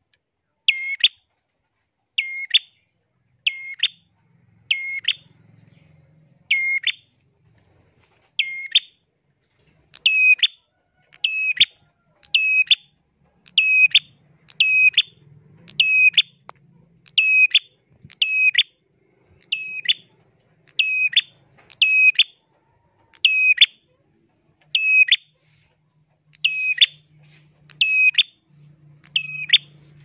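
Prenjak, a small Southeast Asian warbler, calling over and over in sharp high single notes, about one every second and a half at first, then quickening to nearly one a second from about ten seconds in.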